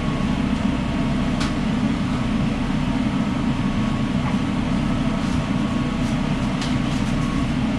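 Steady low mechanical drone of food-truck kitchen machinery, with a few light clicks about a second and a half in and again in the second half.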